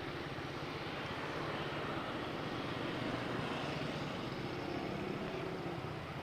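Motorcycle engine running at a steady pitch while riding, with wind rushing over the microphone.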